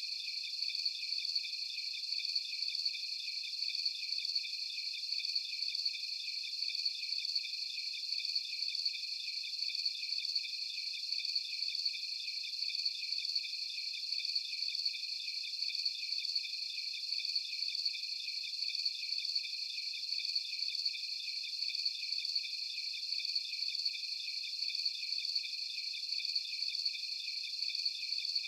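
Chorus of crickets in a tropical forest at night: several high, pulsing trills overlapping in a steady, unbroken drone.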